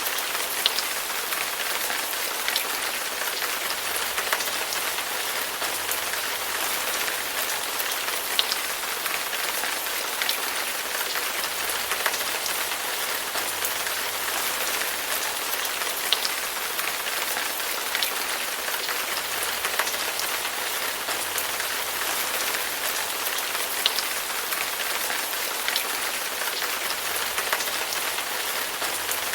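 Steady rain falling on a surface, a dense even hiss with scattered sharper drop ticks every second or two.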